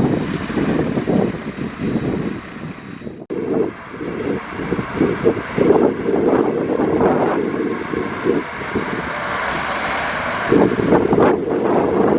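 Heavy earthmoving machinery (bulldozer or dump truck) running, with wind buffeting the microphone. The sound drops out abruptly for a moment about three seconds in.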